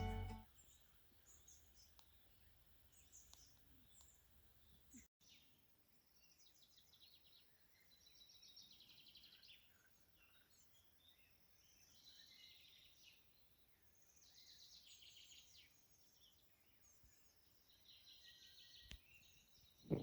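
Near silence with faint birdsong: several birds chirping and giving quick trills here and there.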